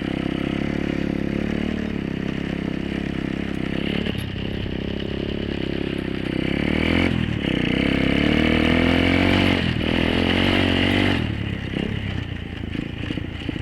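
Apollo 125cc dirt bike engine running under throttle while the bike is ridden, its revs rising and falling. A brief dip about seven seconds in is followed by the louder run of revs, which eases off about eleven seconds in.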